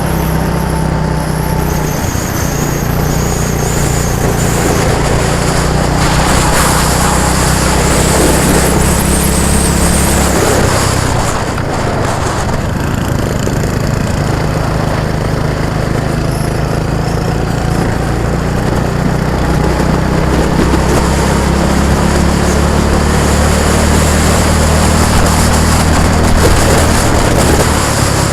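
A motor vehicle's engine running steadily, heard close, dipping briefly about ten seconds in before settling back.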